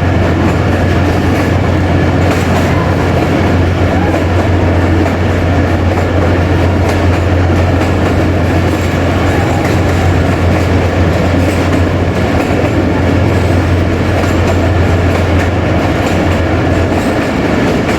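Jaffar Express passenger train running along the track, heard from aboard: a steady, loud rumble of the coach on the rails, with a deep drone that drops away near the end.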